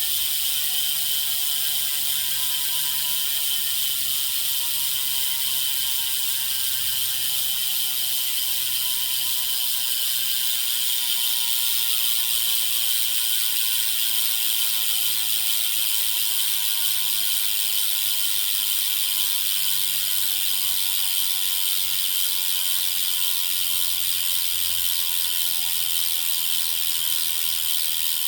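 Hubsmith bicycle hub freewheeling, its freehub pawls clicking so fast they merge into a continuous wasp-like buzz. The pitch slowly falls as the coasting wheel loses speed.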